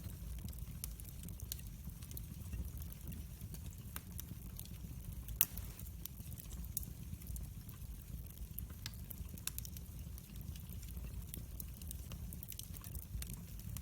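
Wood fire burning in a fireplace: a low steady rumble of the flames with frequent small crackles and pops, and one louder crack about five and a half seconds in.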